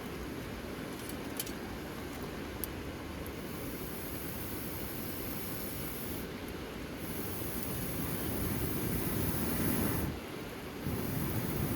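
Steady rain-camp ambience: an even rush of rain and outdoor noise, with a high hiss that comes in after about three seconds and drops out briefly twice, and two sharp clicks early on.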